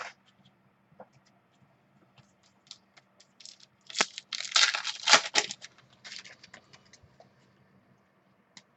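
A trading card pack's wrapper being torn open, with a short loud rip about four seconds in and crinkling after it, among light clicks of card handling.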